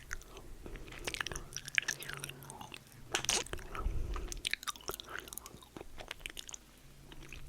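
Close-miked chewing and crunching of snack food in the mouth, with many quick, irregular crackles.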